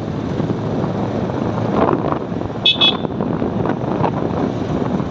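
Two quick beeps of a vehicle horn about two and a half seconds in, over steady wind and road noise from riding.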